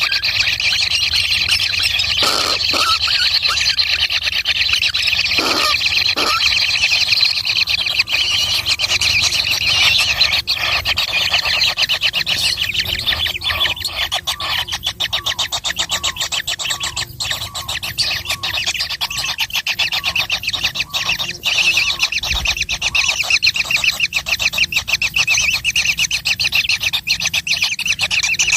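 A group of baby birds calling continuously in a dense, high-pitched chatter of rapid pulses, the begging calls of chicks wanting food.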